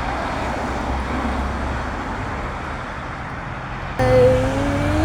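Steady hum of road traffic. About four seconds in, a sustained pitched tone starts abruptly and rises slightly in pitch.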